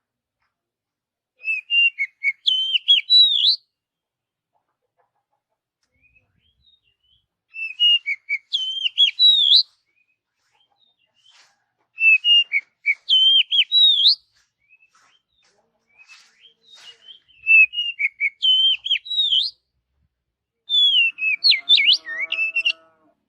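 Oriental magpie-robin (kacer) singing: five separate phrases of varied, rapidly gliding whistled notes, each about two seconds long with pauses between. A lower-pitched call overlaps the last phrase near the end.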